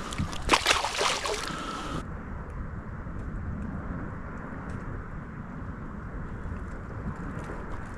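A quick cluster of knocks and clatter for about two seconds, then a steady low rush of wind and water around a kayak on open water.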